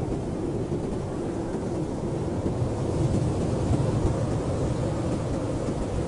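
Blizzard wind blowing hard and steadily as a low, deep noise, swelling slightly about three to four seconds in.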